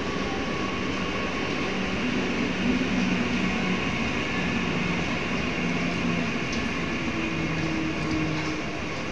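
Suburban electric multiple-unit train moving slowly alongside a platform: a steady rumble of wheels on rail with a low electric motor hum that shifts up and down in pitch.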